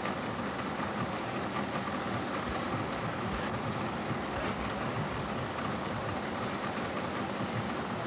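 Steady rushing of river water pouring over a dam and through rapids, an even noise with no breaks.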